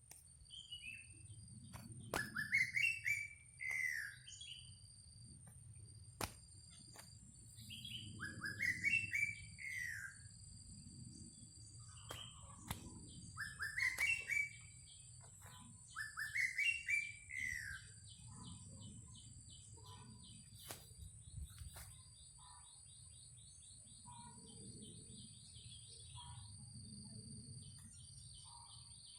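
Greater racket-tailed drongo singing: four loud phrases of rising-and-falling whistled notes, then softer short calls, over steady high-pitched insect buzzing.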